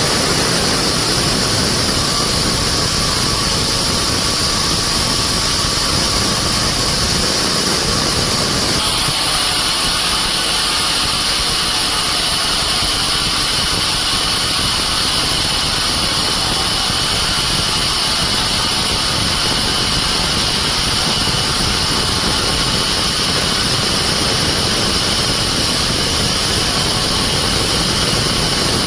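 Sawmill machinery running steadily, a loud continuous engine-and-saw noise. About nine seconds in the sound changes: the low rumble drops back and steady high-pitched tones come up stronger.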